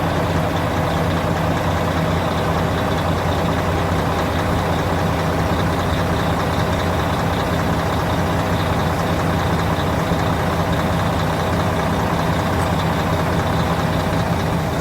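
Volvo truck diesel engine idling steadily.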